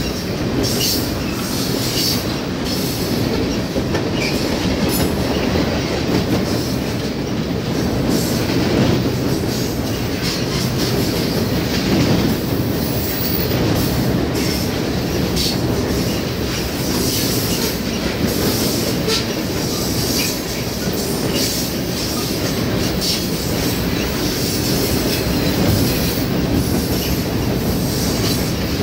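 Freight train cars rolling past close by: a steady rumble and clatter of steel wheels on the rails, with brief high-pitched wheel squeals now and then.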